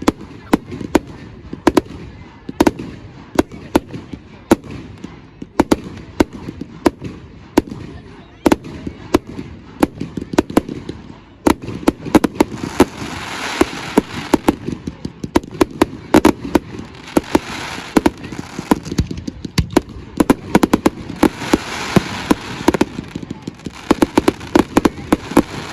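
Fireworks going off in a rapid, irregular string of sharp bangs, several a second, with a crackling hiss joining in from about halfway.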